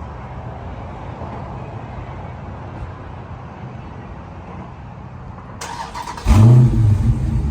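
Dodge Charger Scat Pack's 392 HEMI V8 on stock exhaust given a warm start: the starter cranks briefly about five and a half seconds in, the engine catches with a loud flare and settles into a deep idle. A low engine rumble runs underneath before the start.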